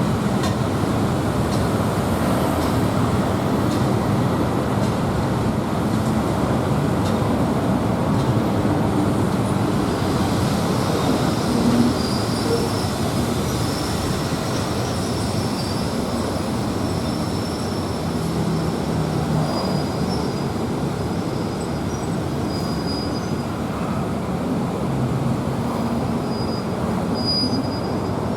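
SRT Eastern Line passenger train running along the track, heard on board as a steady rumble, with thin high-pitched wheel squeal coming and going from about ten seconds in.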